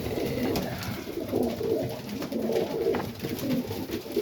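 Serbian Highflyer pigeons cooing in the loft, several low coos overlapping one another.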